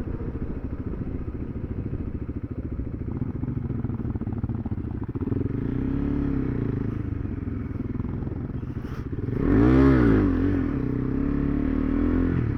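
Motorcycle engine running with a clattery rumble, its pitch rising and falling as it is revved about halfway through and again, louder, near the end.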